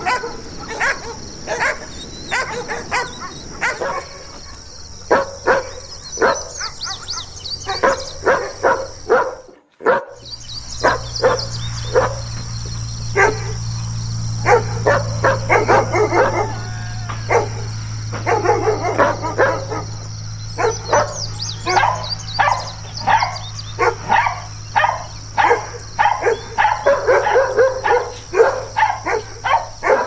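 German Shepherds barking in quick, repeated series of barks, one scene and dog giving way to another after a brief break about ten seconds in. From then on a steady low hum runs beneath the barking.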